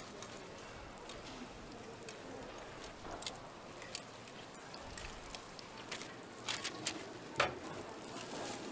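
Hotteok pancakes sizzling in oil on a flat street-stall griddle, a steady frying hiss, with scattered sharp clicks of metal tongs against the griddle and wire rack, the loudest few coming late on.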